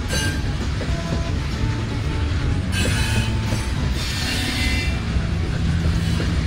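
Coal hopper cars of a long freight train rolling slowly past, their steel wheels on the rail making a steady low rumble. High-pitched wheel squeal rises about three seconds in and again for a second or so after that.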